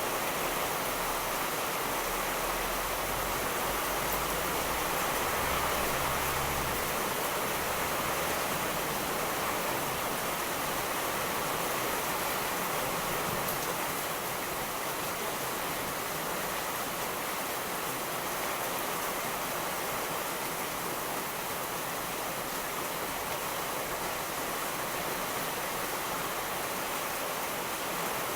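Steady rain falling as an even hiss. A low rumble of distant thunder comes in about a second in and dies away after about nine seconds.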